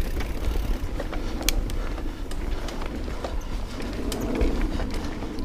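Mountain bike rolling along a dirt singletrack trail: a steady low rumble with scattered sharp clicks and rattles from the bike.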